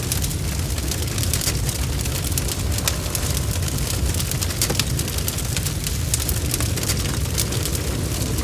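Wood fire crackling, with many small irregular pops over a steady low rumble, and rain pattering alongside.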